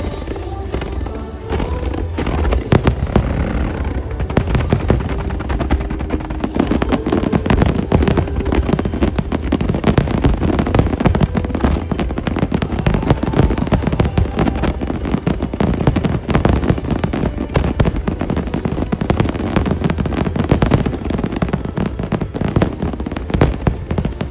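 Dense, rapid barrage of aerial firework shells bursting, many bangs a second with no let-up, over music played on the show's loudspeakers.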